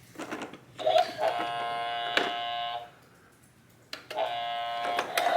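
Toy garbage truck's electronic sound effects: a steady buzzing tone with many overtones plays for about two seconds, stops, then starts again about four seconds in. Sharp clicks come among the tones.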